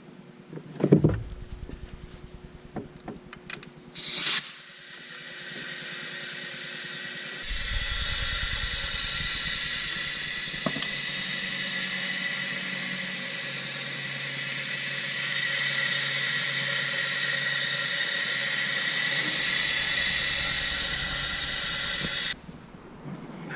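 Compressed air from a cylinder leak-down tester hissing out of a 2008 Mini Cooper S engine under test for a severe misfire. A knock and a few clicks come first, then a short loud hiss about four seconds in. After that a steady hiss with a low rumble under it runs for about fifteen seconds and cuts off suddenly near the end.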